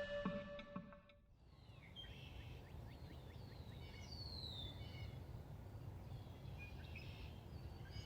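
Background music fading out in the first second, then faint woodland ambience with birds chirping: many short calls and a descending whistle about four seconds in.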